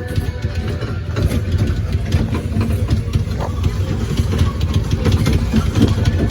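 Mall ride-on train rolling along, heard from aboard: a steady low rumble with constant light rattling and clacking of the cars.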